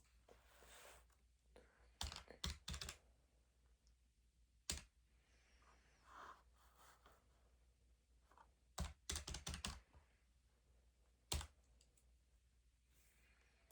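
Short runs of sharp key taps, a few at a time: a cluster about two seconds in, a single tap near five seconds, a longer run around nine to ten seconds and one more tap near eleven seconds. Faint soft rustling comes between them.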